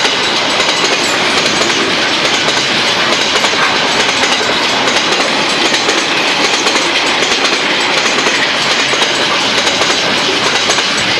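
Freight train wagons rolling past over a level crossing, a loud, steady rail noise of wheels on track, with the crossing's old mechanical bells ringing.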